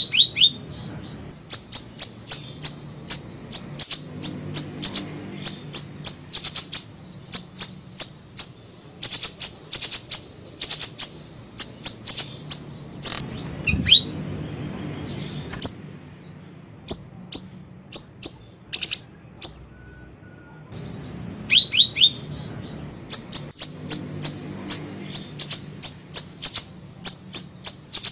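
Small siri-siri songbird singing a rapid series of sharp, high chirps, about three a second, broken by two short pauses that are each led in by a few lower down-slurred notes.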